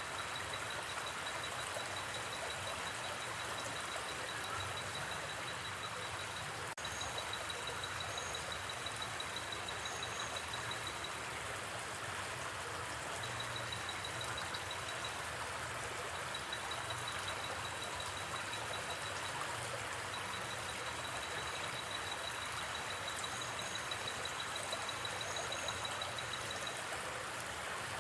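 Steady rush of a gently flowing river, with an insect's high, pulsing trill coming and going in stretches of a few seconds and a few short, higher chirps. One brief click about seven seconds in.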